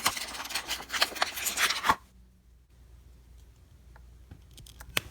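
Plastic toy packaging crinkling and tearing for about two seconds, then a few light clicks of small plastic pieces being handled.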